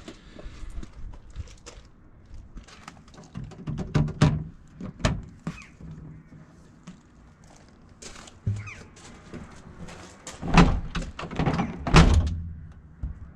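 Scattered knocks and clunks, bunched about four seconds in and again in a louder run near the end.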